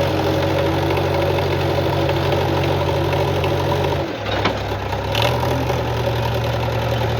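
Heavy diesel engine idling steadily. About four seconds in, its note drops lower as the engine speed changes, then runs on evenly.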